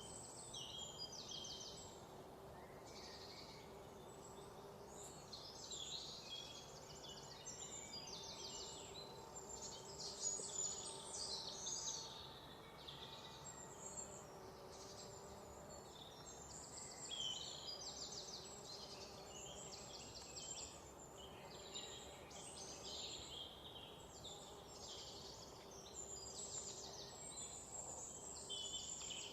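Several songbirds singing at once, a steady mix of chirps and quick repeated trills, faint over a low background hiss.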